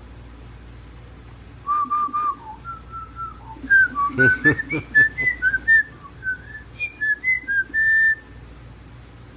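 Pet bird whistling a tune: a run of clear whistled notes starting about two seconds in, three quick repeated notes and then a mostly rising line, ending on a longer held note.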